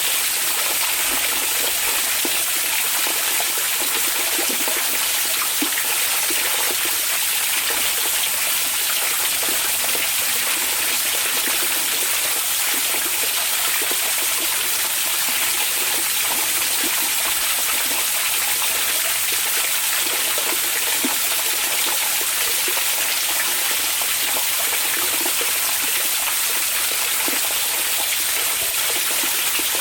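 Hot-spring water flowing and splashing steadily, a continuous even rush with fine trickling detail and no pauses.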